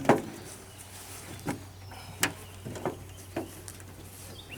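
About five sharp knocks and taps spread over four seconds, the loudest right at the start: a cord being stretched and hooked around an old microwave.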